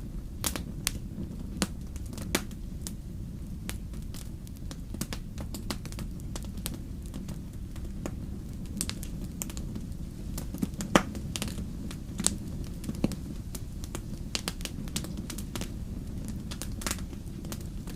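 Wood campfire crackling, with frequent sharp pops at irregular intervals (one louder snap about eleven seconds in), over a steady low rumble.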